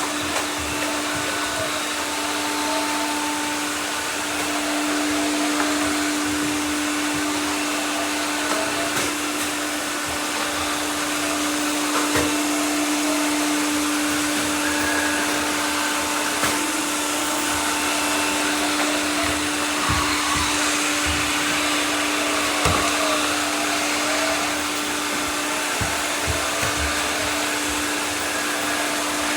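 Several robot vacuum cleaners running at once: a steady whir of motors and fans with a strong even hum, and occasional light knocks.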